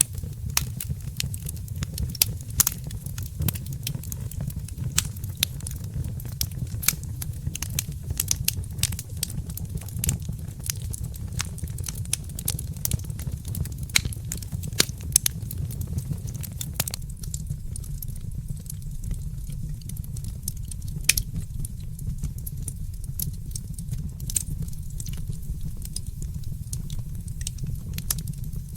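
Fireplace crackling, with frequent irregular pops and snaps over a low steady rumble.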